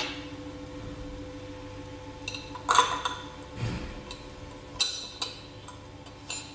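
Parts of a manual meat grinder clinking and knocking against each other as they are handled and fitted together: a few separate sharp clinks with a short ring, the loudest a little under three seconds in.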